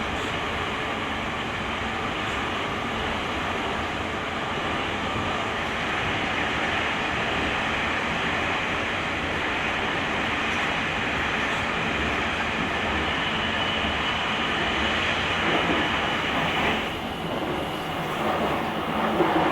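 Series 883 limited-express electric train running on the line, heard from the vestibule of a GTO-inverter motor car: a steady rush of wheel and running noise. Near the end it dips briefly, then grows louder and fuller.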